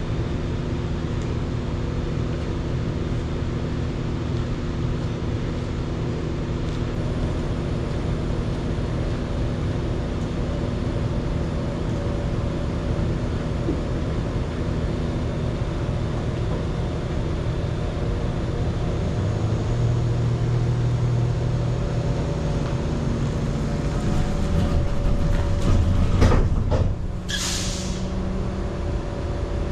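A heavy vehicle engine runs steadily. Its note deepens about two-thirds of the way through, then there is some clatter and a short, sharp hiss of released air near the end.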